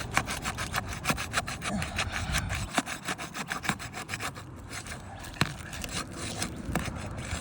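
Asphalt roof shingles being pried apart, their sealant strip tearing loose in a rapid run of crackling clicks that thins out after about four seconds into a few separate snaps. Separating them this way is pulling apart the laminated dragon-tooth layers of the shingles.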